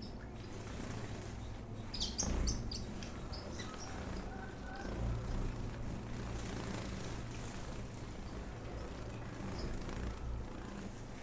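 Ornamental aviary birds chirping: a quick run of short, high chirps about two seconds in, then a few scattered ones, over a steady low hum.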